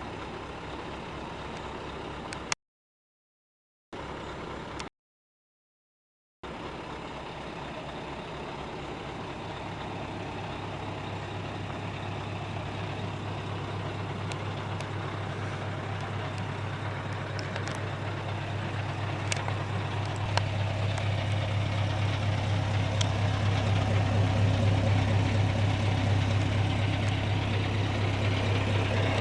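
Scania R730's 16-litre V8 diesel engine running steadily at low revs, growing gradually louder. The sound cuts out completely twice for a second or so near the start.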